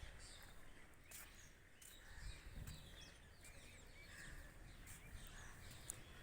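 Faint bird chirps over quiet outdoor background noise, with a faint click near the end.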